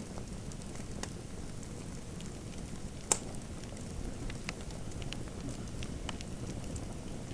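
Fire crackling in a fireplace: scattered sharp pops over a low steady rumble, with one louder pop about three seconds in.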